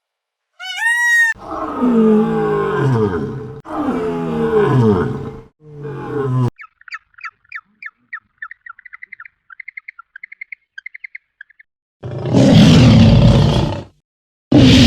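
A run of different animal calls. First a short arched call, then three long, low calls that fall in pitch, then a quick series of high bird chirps, and near the end two loud roars.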